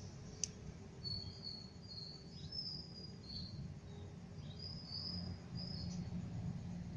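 Bird chirping: a string of short, high chirps, a few sliding downward, over a steady low rumble, with one sharp click about half a second in.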